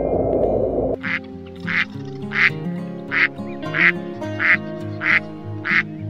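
A series of short animal calls, eight in a row at an even pace of about one every 0.7 seconds, over background music. A low rushing noise in the first second cuts off just before the calls begin.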